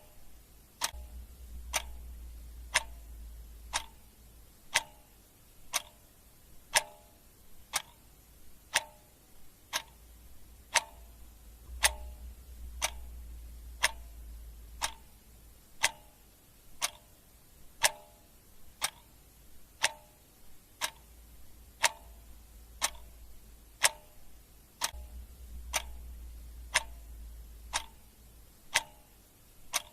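Clock ticking steadily, about one tick a second. Behind it, a faint low rumble swells and fades a few times.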